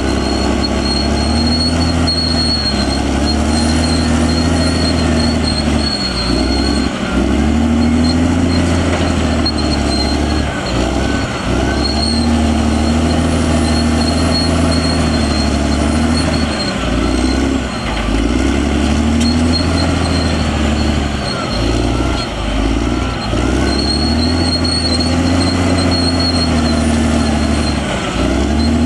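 Caterpillar D6R XL crawler bulldozer's diesel engine working under load, its pitch sagging and recovering every few seconds as the blade pushes soil. A thin high whine comes and goes.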